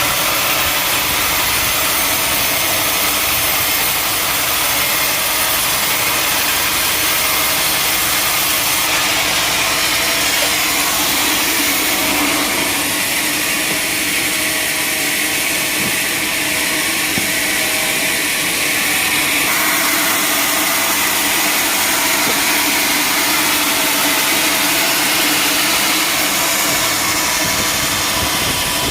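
Sawmill machinery running steadily, a continuous engine-driven drone with a hiss and no distinct cuts or knocks.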